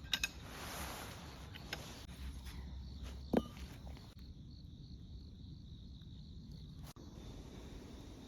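Crickets chirping steadily, broken by a few clicks and knocks from handling camping gear. The loudest is a sharp knock about three seconds in. The cricket chirping drops out for a few seconds midway.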